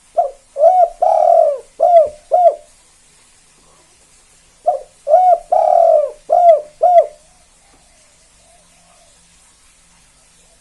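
Spotted dove (tekukur) singing its 'kuk 2' song: two phrases of five coos each, the third coo of each phrase longer than the rest, about four seconds apart.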